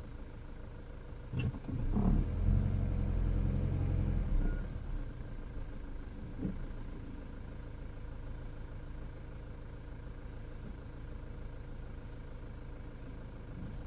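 Car driving, its engine and road noise heard from inside the cabin, with sharp knocks about a second and a half in, then a loud low rumble for about two and a half seconds, and another knock a few seconds later.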